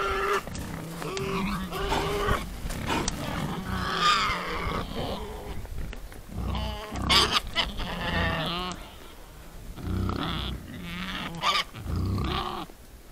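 A herd of wild boar grunting and squealing, in repeated overlapping calls that come and go in bouts of a second or two.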